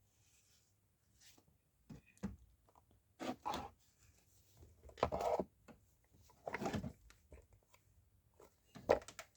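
Irregular handling noises in a small room: a few short rustles and light knocks, the biggest about a third of the way in, around the middle and near the end.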